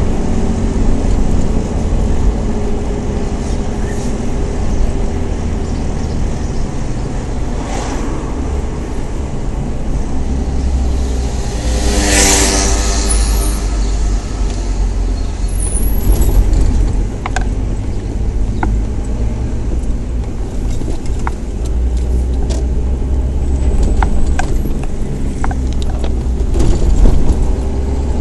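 Nissan Patrol's engine and road noise heard from inside the cab, a steady low drone while driving slowly through town traffic. About halfway through there is a brief loud burst of rushing noise.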